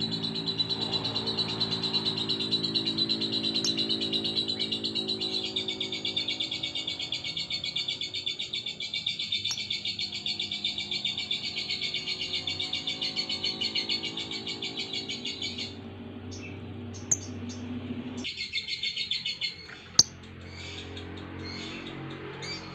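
Lovebird giving a long, fast, unbroken chattering trill that stops after about fifteen seconds. It bursts out again briefly a few seconds later, then gives a few scattered short chirps.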